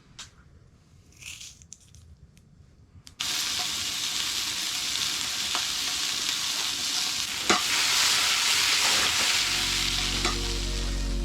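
A steady sizzling hiss cuts in suddenly about three seconds in, with a few faint clicks through it. Low music fades in near the end.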